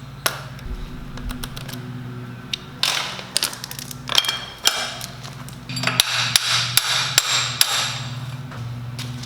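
Impact driver hammering in two short bursts, about three seconds in and again around six seconds in, driving a large socket through an adapter to break loose tight bolts, with a steady low hum underneath.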